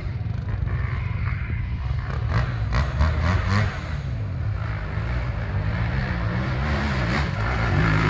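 Enduro motorcycle engine running under load, its pitch rising and falling as the throttle is worked. There are a few short knocks between about two and four seconds in.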